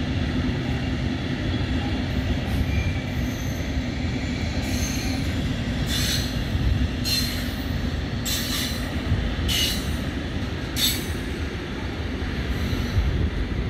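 Intermodal freight train carrying road semi-trailers rolling past with a steady rumble. From about a third of the way in, its wheels squeal in short high-pitched bursts, about six times at roughly one-second intervals.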